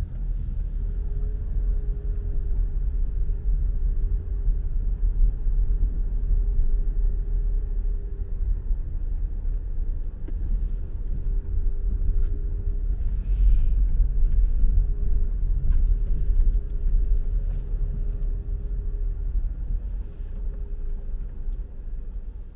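Car driving on the road: a steady low rumble of road and engine noise with a faint steady hum.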